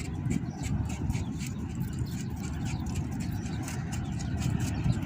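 Toyota Camry engine running at a fairly steady level, with rapid irregular clicking above the rumble.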